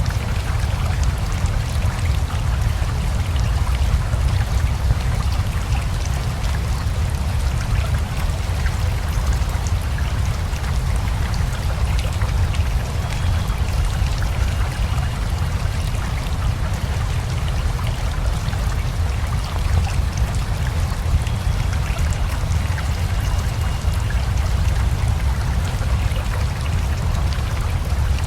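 Steady rain with the rushing water of a river beneath it: a constant deep rush under a dense patter of drops.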